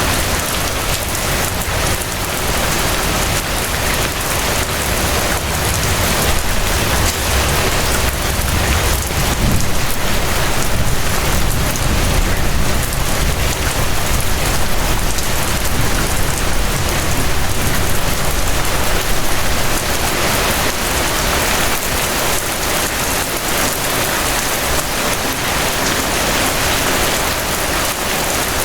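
Steady rain falling, an even hiss with a low rumble underneath that eases off near the end.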